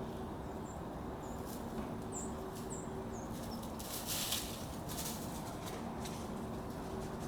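Dry leaves rustling and crunching in short bursts as kittens play in them, the loudest burst about four seconds in. A few faint, short, high chirps come in the first half over a steady low hum.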